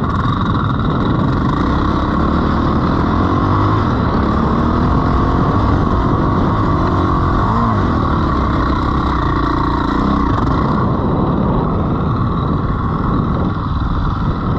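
Dirt bike engine running hard, its revs rising and falling as it is ridden.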